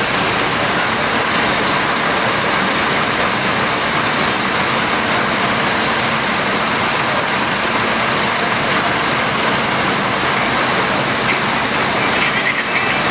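Steady road noise and engine hum inside the cabin of a Scania K410iB double-decker bus on the move, an even rushing sound with no change in pace. A few brief high tones sound near the end.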